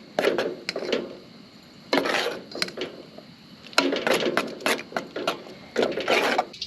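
A metal utensil clinking, knocking and scraping against a pot, stirring a cheese sauce. The sound comes as a series of short knocks with a few longer scrapes.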